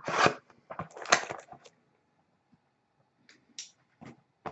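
Handling noise from a trading-card hobby box and its packaging: a few short rustles and scrapes in the first second and a half, then a few faint ticks near the end.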